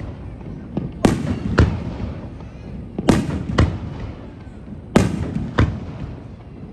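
Aerial fireworks shells bursting in a display: sharp bangs in pairs about half a second apart, a new pair roughly every two seconds, each with a short rumbling tail.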